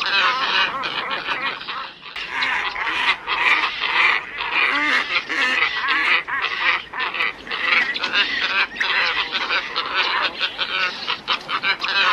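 A flock of glossy ibises calling, many overlapping calls running on continuously with a brief lull about two seconds in; a recording played as a lure call to draw in ibises.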